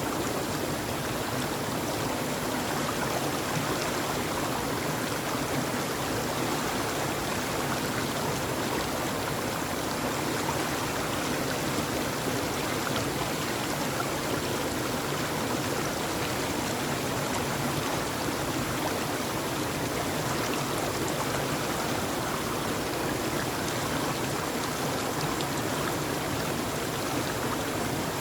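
Steady, even rush of running water, like a stream flowing over stones, with no change in level.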